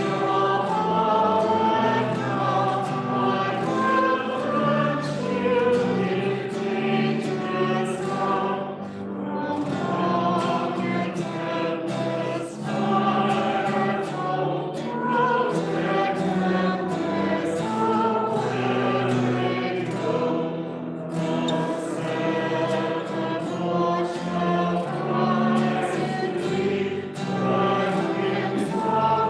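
Congregation singing a hymn together with instrumental accompaniment, in slow held phrases with brief breaks between lines.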